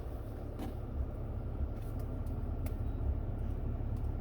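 Steady low rumble and air noise inside a 2019 Ram 3500's cab, with the engine running and the HVAC fan blowing. There are a few faint clicks. The air blowing on the cold setting is hot, which the owner puts down to a heater blend door that will not close completely.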